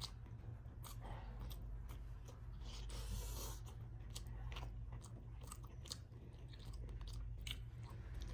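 A person chewing braised salmon and rice close to the microphone: wet mouth sounds with frequent small smacks and clicks, over a steady low hum.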